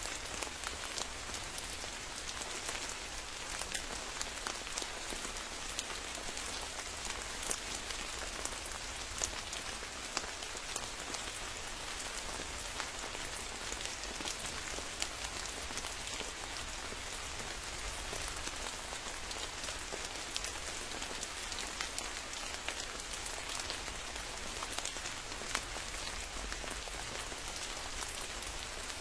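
Steady rain falling, with many sharp ticks of individual drops landing close by.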